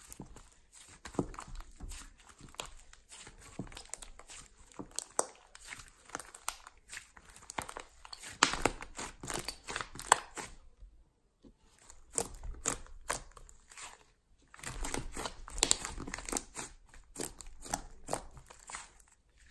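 Hands squeezing, stretching and folding slime, making rapid irregular crackling and popping clicks as trapped air bubbles burst. It pauses briefly twice near the middle.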